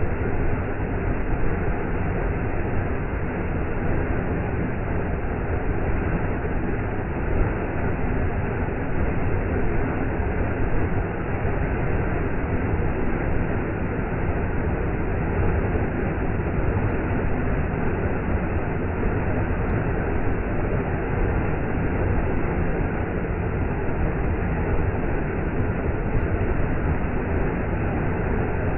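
Waterfall: water falling and rushing in a deep, steady, unbroken wash of noise.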